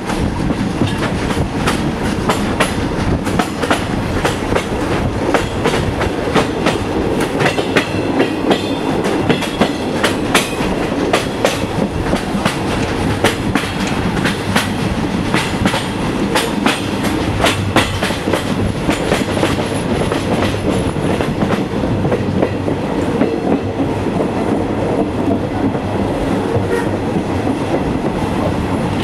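A train rolling along the track with steady running noise and many irregular sharp clicks and knocks of wheels passing over rail joints.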